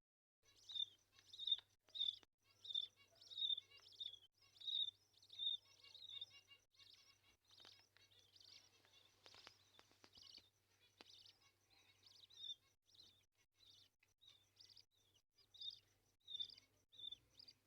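Baby bird chirping over and over in short, high, falling calls, about one to two a second at first, then softer and more scattered toward the end.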